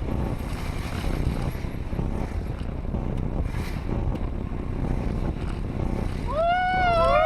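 Steady low rumble of a car driving, road and engine noise. About six seconds in, a loud high wavering screech starts and keeps going.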